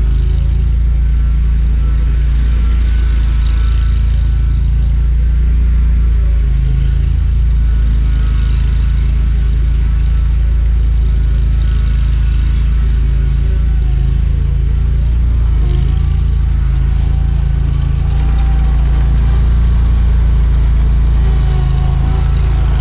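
Scag Liberty zero-turn mower's engine running steadily, with small changes in pitch and load a few times.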